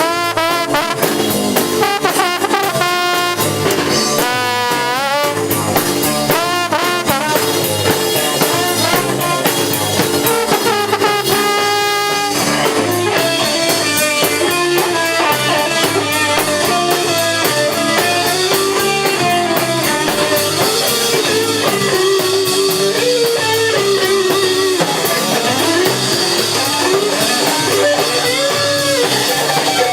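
Live band music: guitar, horns and drum kit playing a song, with a wavering melodic line over a steady beat.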